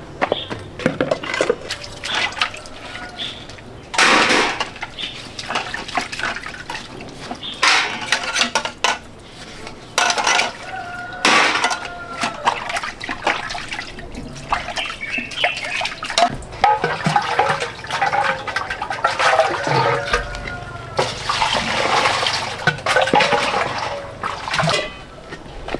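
Water splashing and pouring in irregular surges, with scattered clatter and knocks.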